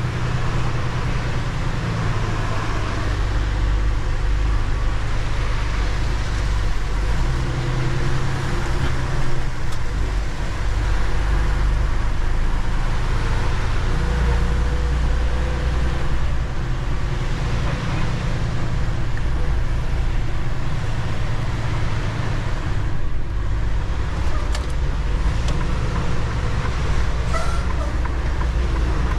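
Semi-truck engine and road noise heard from inside the cab while driving: a steady low drone whose pitch shifts now and then.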